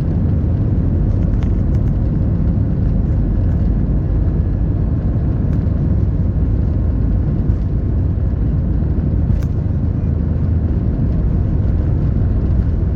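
Jet airliner on its takeoff roll, heard from inside the cabin: the engines at takeoff power and the runway rumble make a loud, steady roar with a faint steady hum above it.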